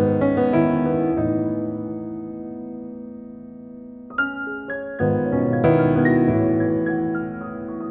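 Background piano music: slow sustained chords that fade, with new notes struck about four and five seconds in.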